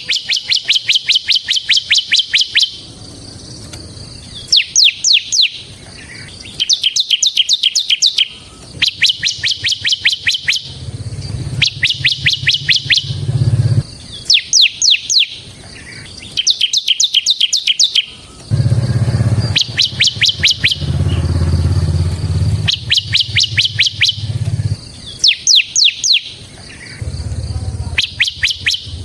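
Bar-winged prinia (ciblek) singing a rapid, drill-like trill of evenly spaced high notes, in repeated runs of a second or two with short pauses between. A low hum runs underneath at times.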